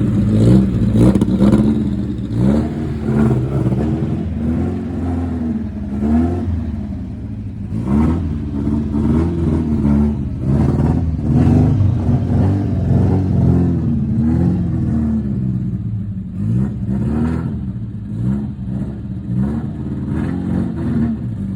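A car engine running steadily at low revs, close by.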